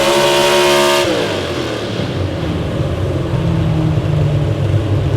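Engine of a pulling truck or tractor held at high revs, then about a second in the revs drop and the pitch falls away, leaving a lower, rougher engine rumble.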